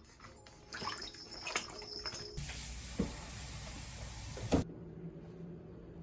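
Water running for about two seconds, starting and stopping abruptly, with a couple of knocks while it runs and small clicks and taps before it. A steady low hum follows once the water stops.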